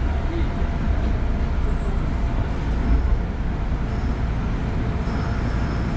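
Kintetsu electric train running, heard from inside the front cab: a steady rumble of wheels on rail with a faint motor hum, as it pulls out past the platform end.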